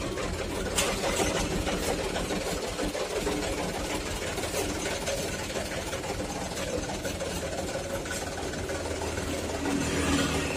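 Truck engine idling steadily, with a few light ticks over the low hum and a slight rise in level near the end.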